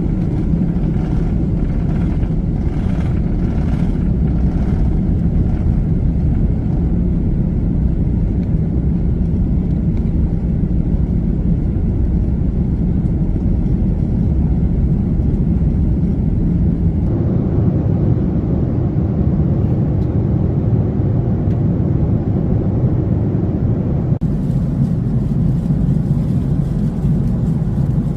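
Airbus A330-300 airliner heard from inside the cabin: a steady, loud rumble of jet engines and airflow. The sound shifts abruptly about two-thirds of the way through and again a few seconds later.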